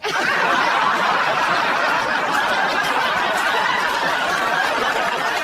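Laugh track: a crowd laughing, starting abruptly and holding steady.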